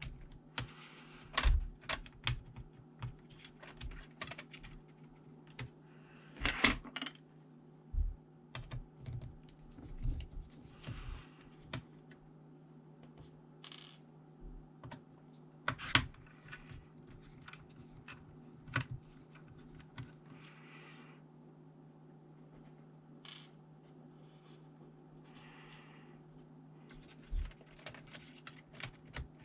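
Irregular small clicks, taps and light clinks of plastic and metal laptop parts being handled and worked during disassembly, with a few short scraping sounds, over a steady low hum.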